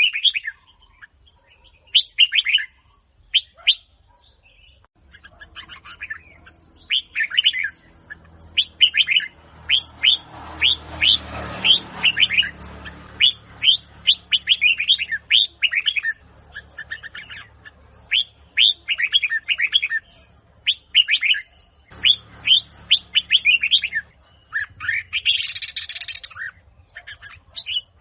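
Red-whiskered bulbul of the Huế type (chào mào Huế) singing: quick runs of sharp, chirpy whistled notes in phrases broken by short pauses, over a faint low hum through the middle of the stretch.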